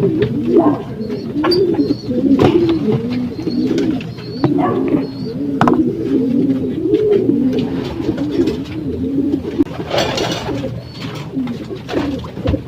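Several racing pigeons cooing over one another without a break, with scattered clicks and a short noisy burst about ten seconds in.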